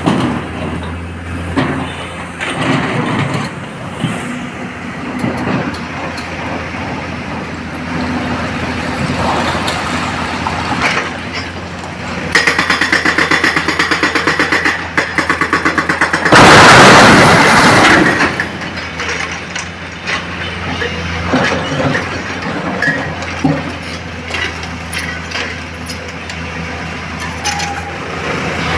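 Heavy diesel machinery running steadily, with scattered knocks and clanks. A rapid buzzing, pulsing tone lasts a few seconds around the middle, followed by a loud rushing crash of about a second and a half.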